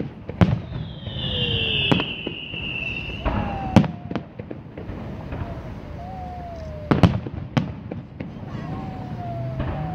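Fireworks shells bursting in sharp bangs: about half a second in, at two seconds, near four seconds, and a close pair around seven seconds. A high whistle runs through the first three seconds.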